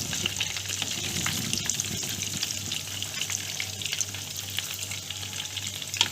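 Hot oil sizzling and crackling steadily around corn-flake-coated chicken momos deep-frying on a low flame, almost done. Near the end there is one sharp tap.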